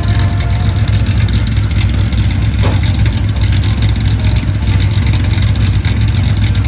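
Nissan L-series straight-six engine, enlarged to 3.1 litres, in an S30 240ZG, running steadily with a deep, even drone.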